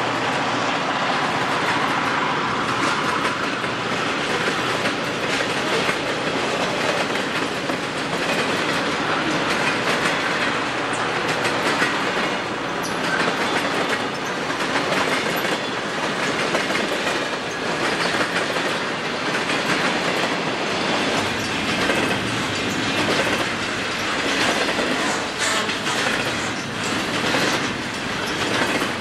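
Freight cars rolling past close by, steel wheels clacking over the rail joints in a steady stream of clicks.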